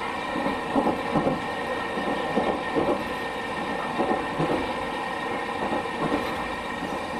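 Interior of a Chikuho Electric Railroad car running along the line: steady running noise and motor hum, with the wheels clicking over rail joints in pairs about every second and a half.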